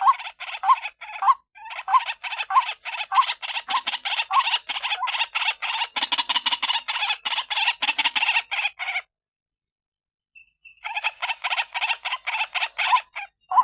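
White-breasted waterhen (ruak-ruak) calling: a fast run of harsh, repeated croaking notes. It breaks off about nine seconds in and starts again about two seconds later. This is the call played as a lure to draw the birds in.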